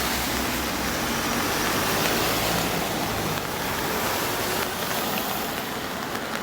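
Steady rain falling, an even hiss that holds at a constant level.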